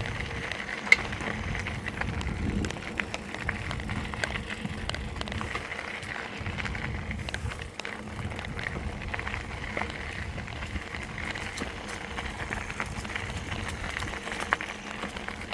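Bicycle riding along a park trail: a steady rumble of tyres and air with scattered small clicks and rattles.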